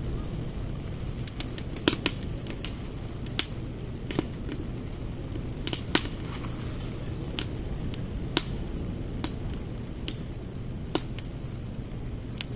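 Firewood burning in a secondary-combustion fire pit, crackling with scattered sharp pops at irregular intervals over a steady low rush.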